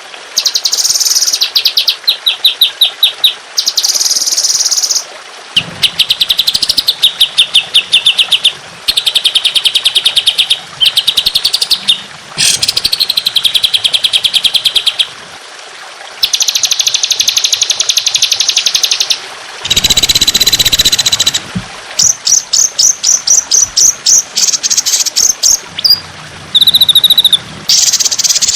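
Songbird calls in long, dense runs of rapid repeated high notes, the 'tembakan' shot phrases of a songbird tutor recording, one phrase after another with short gaps between them.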